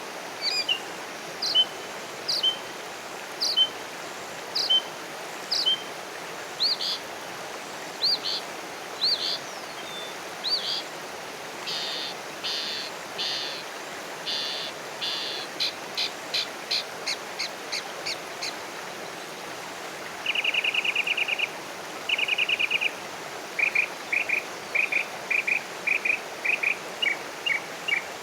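Songbirds calling in a run of changing phrases: a clear note repeated about once a second, then buzzy notes, a fast series of short notes, two brief trills, and a quick rhythmic series of paired notes, over a steady background hiss.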